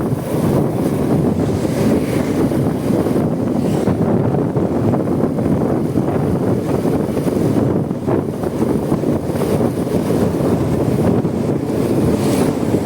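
Steady wind rushing over the microphone of a Honda Supra X 125 motorcycle under way, with road noise underneath.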